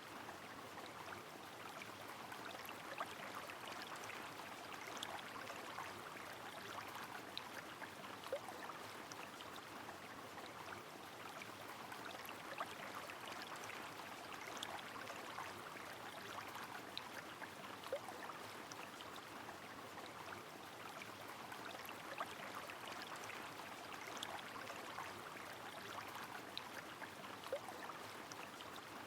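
Steady rushing of a river mixed with falling rain, with many scattered drip-like ticks and a few small water plops.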